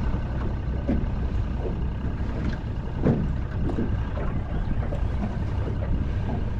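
Boat motor running steadily under way, a continuous low drone.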